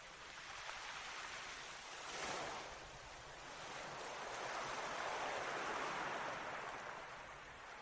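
Sea waves washing in and drawing back, a short surge about two seconds in and a longer, fuller swell from about four to seven seconds.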